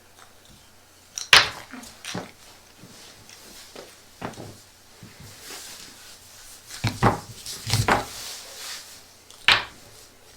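Sharp clicks and knocks from small hard objects being handled, about six over ten seconds, with soft rustling between them.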